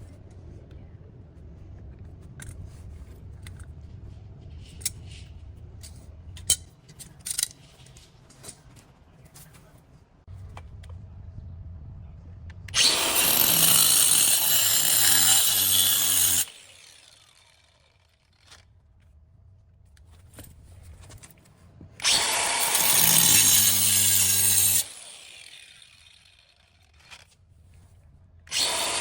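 A power tool runs in three bursts of a few seconds each, near the middle, about two-thirds of the way in and at the very end. Between the bursts there are quieter clicks and handling noise.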